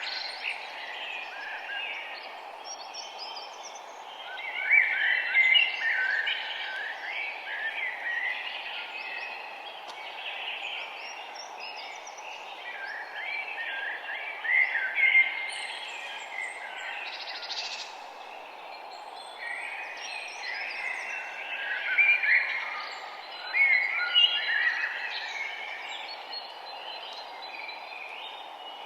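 Several songbirds chirping and singing together in overlapping bursts of quick trills, over a steady background hiss.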